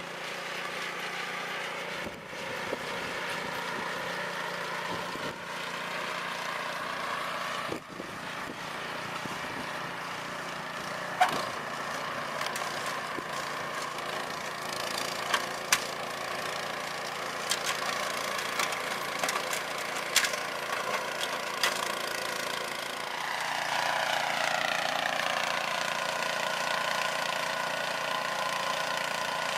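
MTD snowblower's engine running steadily while clearing snow, with a few sharp clicks along the way. A little over twenty seconds in, the engine's pitch rises and stays up.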